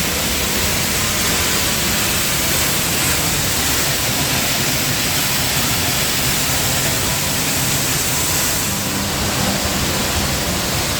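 Large waterfall pouring, a loud, steady rush of falling water and spray.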